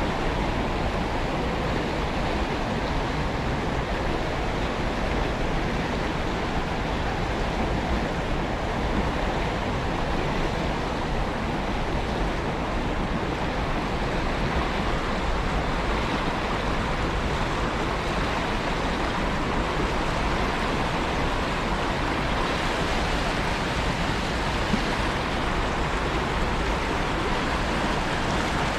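Steady rush of a small river's flowing water, an even noise with no breaks.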